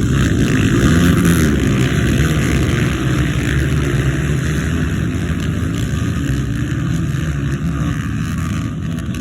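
Motocross motorcycle engines running, with a rise and fall in pitch about a second in as the engines rev.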